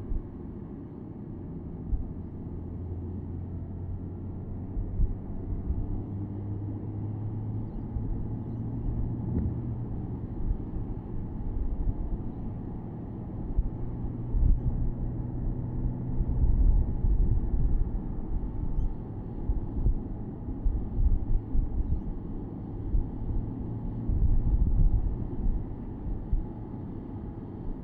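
Porsche Boxster S's 3.4-litre flat-six engine droning steadily at a cruise, heard from the open-top cabin. A low rumble of road and wind noise runs under it, with irregular low thumps.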